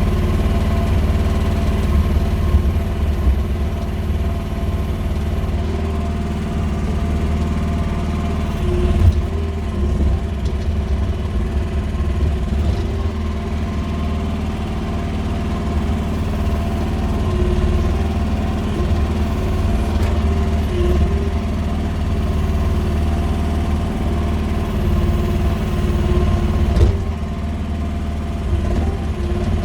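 QH13R mini excavator's engine running steadily, its pitch holding even with small swells in load as the machine works. There are a couple of brief knocks, one about a third of the way in and one near the end.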